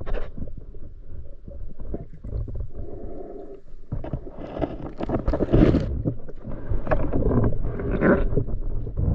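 Water gurgling and splashing around the camera, with irregular knocks and rumbling bursts.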